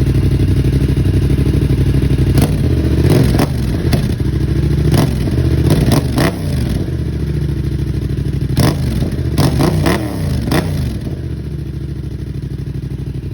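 Yamaha MT-07's parallel-twin engine running through a cheap aftermarket exhaust with the baffle in. It idles, is blipped up and down several times between about two and eleven seconds in, and then drops back to a steady idle.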